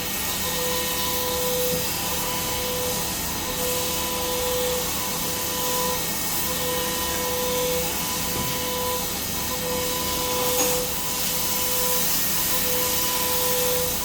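Machine noise: a steady hiss with a mid-pitched tone that pulses on and off at an even beat, roughly every second and three quarters.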